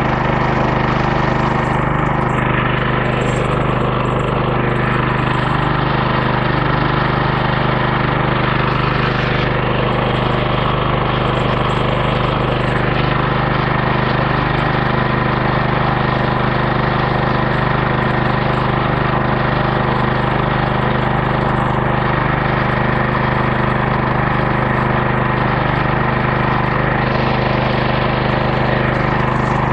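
Homemade bandsaw sawmill's 14 hp 420cc small gas engine running steadily at speed, driving the band blade through a log on the first cuts.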